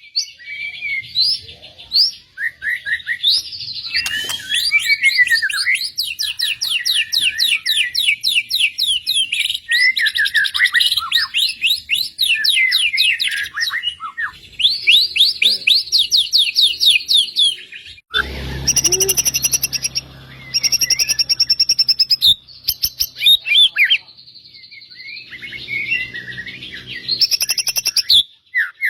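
Songbird singing continuously in fast rattling trills of quick repeated notes, mixed with varied high chirps and short phrases. A low hum runs underneath for a few seconds about two-thirds of the way through.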